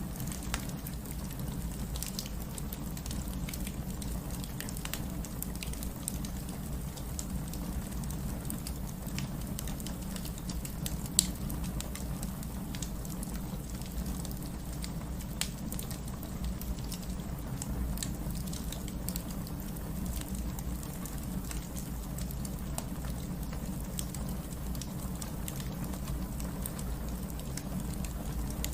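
Wood fire crackling in a fireplace, with scattered sharp pops (one loud snap about eleven seconds in), over a steady low hiss of rain.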